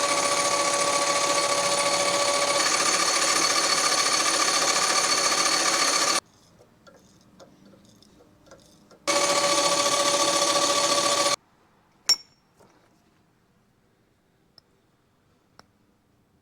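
A handheld power tool running at full speed with a steady high whine, cutting off about six seconds in, then running again for about two seconds; a single sharp click follows.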